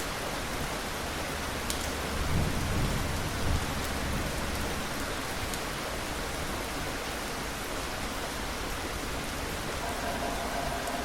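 Steady rain falling, with a low rumble of thunder swelling about two seconds in and fading out by the middle.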